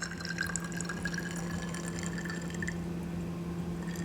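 Water trickling and dripping as it fills a small E85 tester tube up to its measuring line, mostly in the first couple of seconds. A steady low hum runs underneath.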